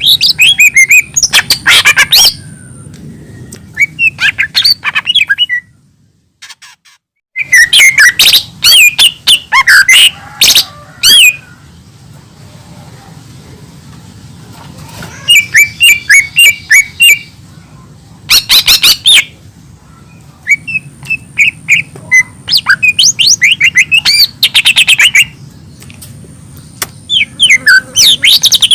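Lesser green leafbird (cucak ijo mini) singing loudly in bursts of rapid chirps and trills, each phrase a few seconds long with short pauses between, and a brief silent break about six seconds in.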